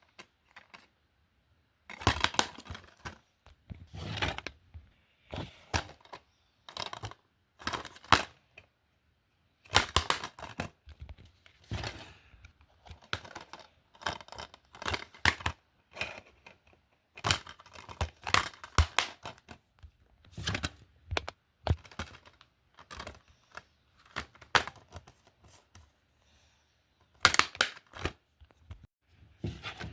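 DVD and Blu-ray cases being handled and set down: irregular plastic clicks, clacks and rustling, in short clusters with brief silent gaps.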